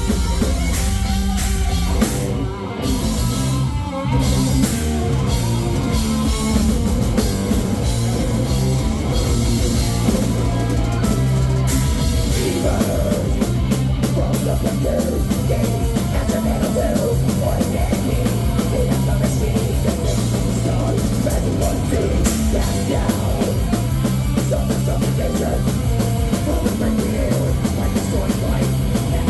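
Heavy metal band playing live: distorted guitars, bass and a pounding drum kit, loud and dense, with a short break about three seconds in.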